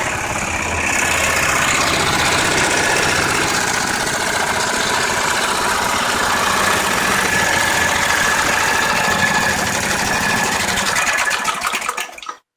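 Briggs & Stratton 14.5 hp small engine running steadily, then dropping away quickly near the end.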